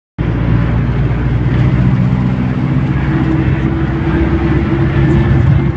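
Mercedes-Benz LO 915 bus's diesel engine running steadily, its pitch rising slightly about halfway through.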